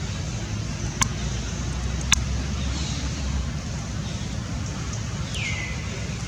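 Steady low outdoor rumble with two sharp clicks, about one and two seconds in, and near the end a short high sound that slides down in pitch and then holds.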